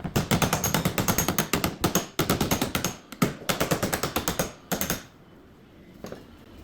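A tool clattering rapidly, many sharp strikes a second, with a couple of brief breaks, stopping about five seconds in.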